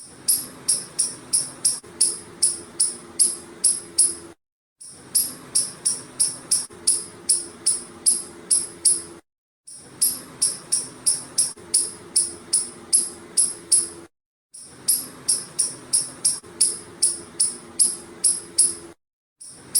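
Squirrel chirping: a rapid series of sharp, high-pitched chirps, about three a second, in runs broken by brief silences every few seconds, over a faint steady hum.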